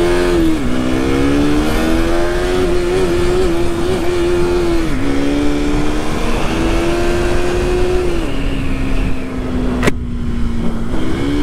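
KTM RC sport bike's single-cylinder engine pulling away and cruising, its pitch climbing and then dropping sharply at each of several gear changes, over a steady rush of wind noise. A single sharp click near the end.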